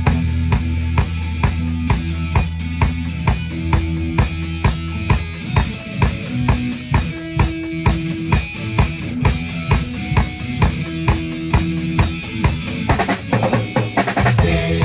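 Live rock band playing an instrumental passage: a drum kit keeps a steady beat about twice a second under held bass notes and guitar, with a drum fill near the end.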